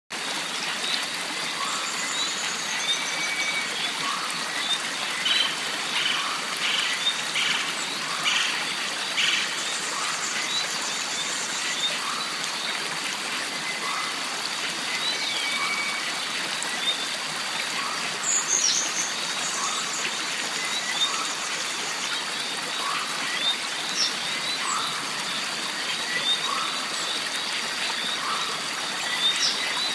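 Jungle stream running steadily, under a constant high-pitched drone. Short calls repeat about every second or two, and birds chirp and trill now and then.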